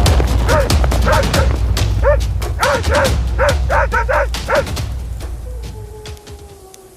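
A canine giving a quick series of about ten short barks and yelps, over a low rumble and music, fading out near the end.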